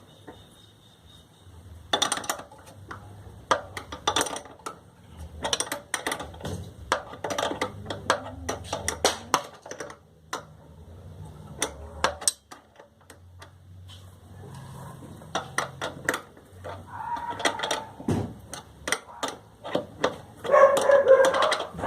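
Repeated clicks, taps and metallic clinks of tools and small parts being handled, over a low steady hum, with a denser, louder clatter near the end.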